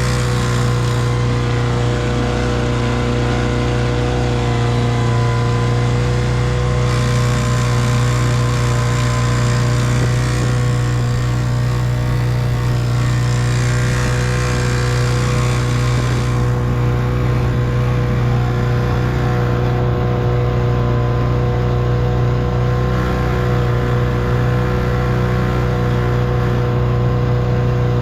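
1958 Evinrude 3 hp two-stroke outboard motor running steadily at a constant speed.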